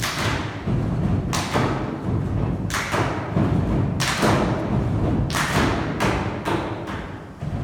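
Percussion knocks and thumps played by performers, about ten strikes in an uneven rhythm, several in quick pairs, each ringing out briefly over a steady low rumble.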